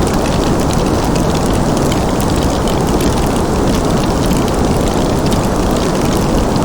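Wood fire crackling in a fireplace, a thick stream of fine crackles and small pops over a steady, low rushing noise that holds even throughout.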